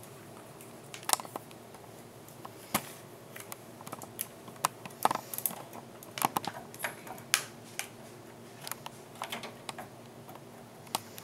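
Scattered small clicks and taps of PC hardware being handled as a graphics card is readied to go into the computer's slot.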